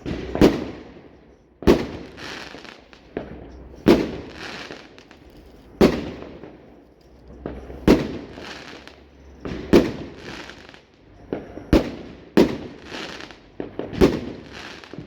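Fireworks going off in a regular run of about nine loud bangs, roughly one every two seconds, each followed by a crackling, hissing tail.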